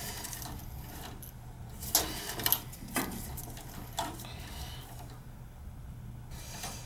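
A few sharp clicks and taps from hands working on a furnace's electrical wiring, spaced about half a second to a second apart, over a steady low hum.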